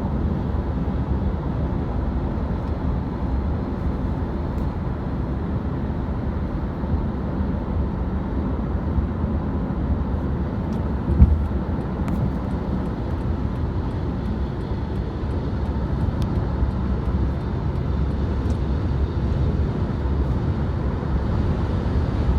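Steady low rumble of jet aircraft engines, with a brief thump about eleven seconds in.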